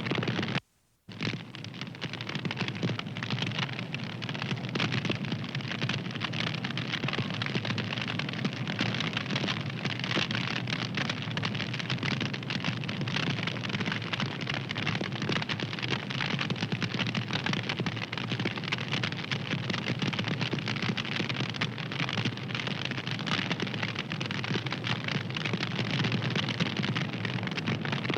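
Wood fire crackling, a dense, steady stream of small pops and snaps. The sound drops out briefly about a second in, then resumes.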